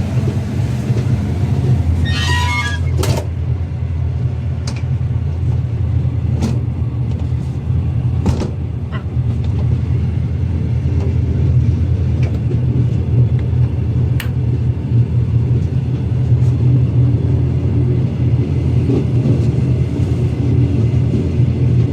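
Passenger train running along the track: a steady low rumble with scattered clicks and knocks. A brief high-pitched squeal sounds about two seconds in.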